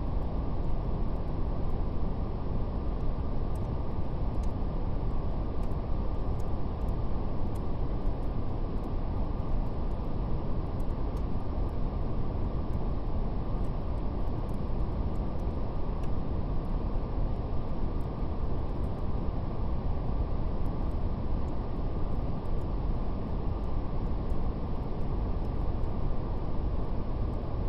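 Steady brown noise, a deep even hiss weighted to the low end and rolled off above the midrange, with faint scattered crackles of a fire.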